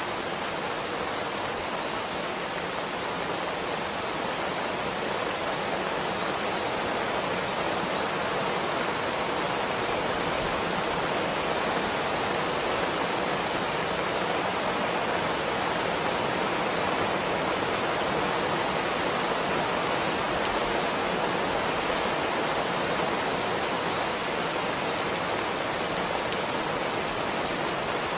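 Heavy rain falling steadily, an even unbroken hiss with a few faint drop ticks.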